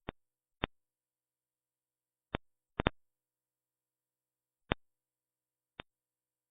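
Sharp isolated clicks on a band-limited CCTV audio track, about seven of them at uneven intervals, with a quick pair near three seconds in and dead silence between.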